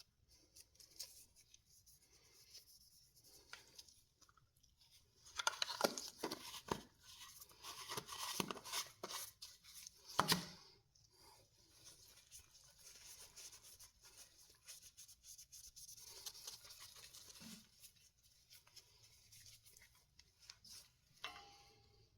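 Cloth or paper rustling and rubbing against a small turned rosewood pull while Renaissance wax is buffed on by hand, with scattered light clicks and taps. The rubbing is loudest between about six and eleven seconds in.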